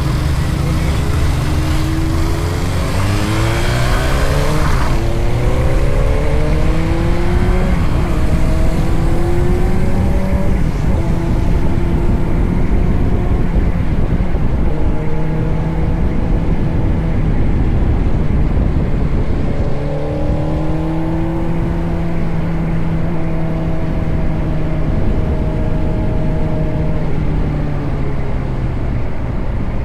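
Motorcycle engine pulling through the gears: its pitch climbs and drops back several times in the first half, then holds fairly steady at cruising speed, over a constant low rushing noise. A brief louder hiss about three to five seconds in.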